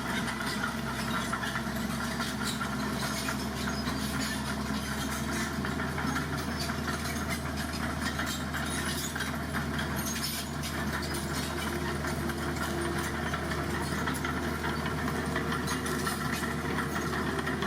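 Heavy diesel engine idling steadily, with a constant crackly hiss over the low hum.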